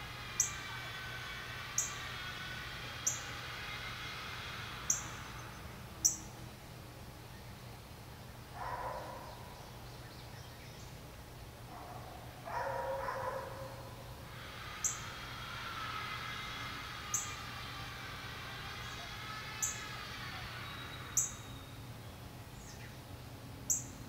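Wild birds calling: about ten sharp, very high, brief chirps one to two seconds apart, over a wavering chorus of lower calls that fades out after about five seconds and returns midway.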